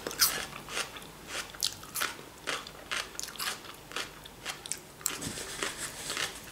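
A person chewing a crunchy raw vegetable at close range, with crisp wet crunches about twice a second.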